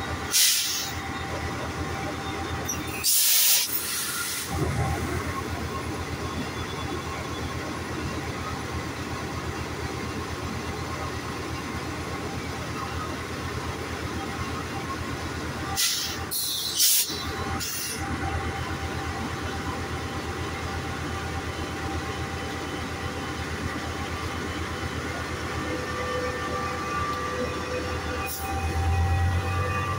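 Metrolink commuter train standing at the platform: its diesel locomotive runs with a steady low hum, broken by short loud hisses of air, the longest about three seconds in and three close together around sixteen to eighteen seconds. Near the end the low engine sound grows louder.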